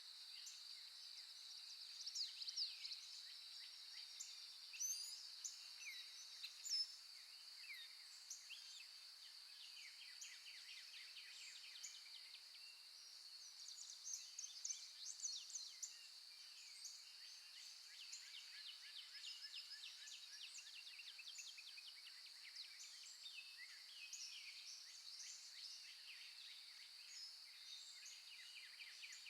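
Faint birdsong: several birds chirping and trilling in quick runs of notes over a steady high-pitched hiss.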